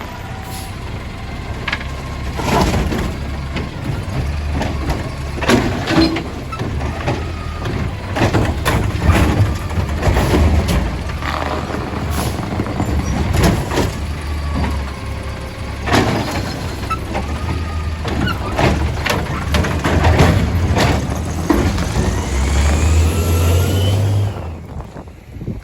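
Garbage truck engine running and revving as it works, with repeated loud bangs from recycling bins being slammed against the truck to knock loose contents frozen inside.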